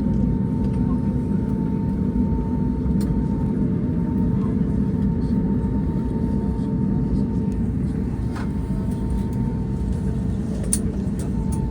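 Steady cabin noise of an Airbus A321neo taxiing after landing: a low rumble with a steady whine over it and a few faint clicks.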